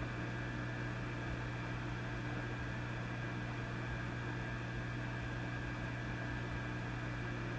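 Vintage tube amplifier idling with a steady mains hum and a layer of hiss, unchanging throughout.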